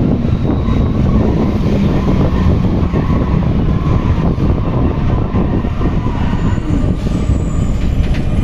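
Interior running noise of an Alstom NS-93 rubber-tyred metro train: a steady rumble, with a low hum in the first few seconds that then fades.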